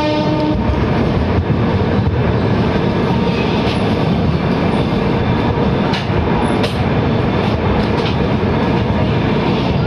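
Passenger express train running along a platform as it pulls into a station, heard from the open coach door: steady rumble of wheels on rails with a few sharp clicks over rail joints. The locomotive's horn cuts off about half a second in.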